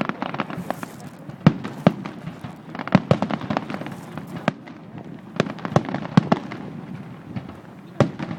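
Aerial fireworks going off in a rapid, irregular run of sharp bangs and pops over a continuous crackle.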